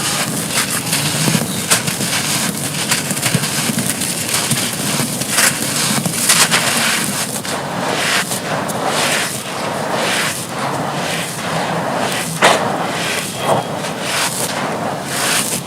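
Soft, dry, dusty chunks being crumbled and crushed: continuous gritty crunching and crackling with a few sharper snaps.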